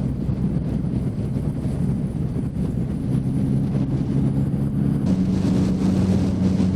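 Motorcycle engine running steadily on the move, with wind rushing over the microphone; about five seconds in the engine note shifts and steadies.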